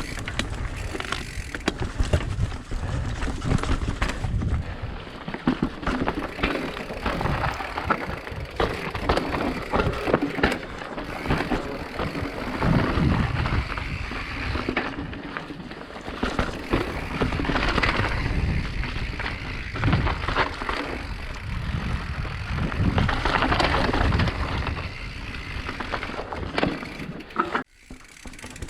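Mountain bike ridden down a rough downhill trail: continuous rattling and irregular knocks of the bike over the ground, with a low rumble. The sound drops out suddenly for a moment near the end.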